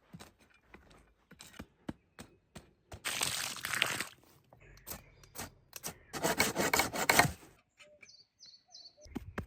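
Dry wood and brush being handled: scattered sharp cracks and snaps, two rustling sweeps about a second long each, and a brief bird chirping near the end.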